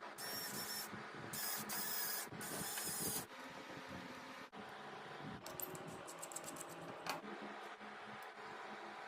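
Three short bursts of hissing spray in the first three seconds, then a quick run of clicks about six seconds in, over a steady hum.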